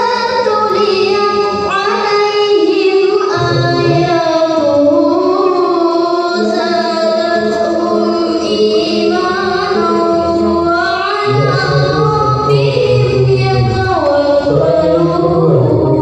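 A woman singing an Islamic devotional song (sholawat) solo in a clear, high voice, holding long notes and ornamenting them with melismatic turns. A lower accompanying part comes in about three seconds in, drops out around the middle, and returns.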